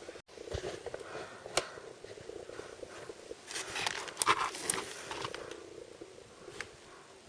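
Hands handling crinkly plastic blind-box packaging: scattered clicks and rustles, busiest from about three and a half to five seconds in.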